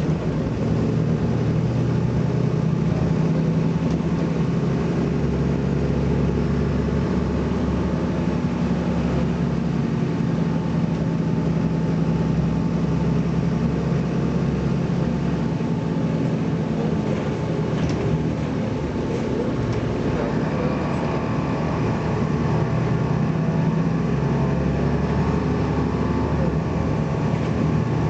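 BMC Belde 220-SLF city bus's diesel engine running steadily under way. It eases off a little past halfway, then pulls again with a rising whine in the last third.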